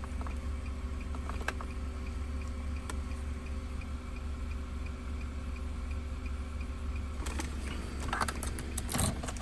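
Rapid, even ticking inside the car's cabin over a steady low hum. A steady tone cuts off about seven seconds in, and a few sharp clicks follow near the end.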